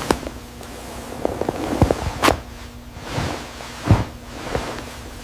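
Scattered knocks and thumps with rustling in between, the two loudest about two and four seconds in, over a faint steady hum.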